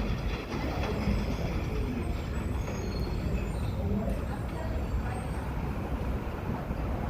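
New York City subway train running on the Livonia Avenue line, a steady low rumble.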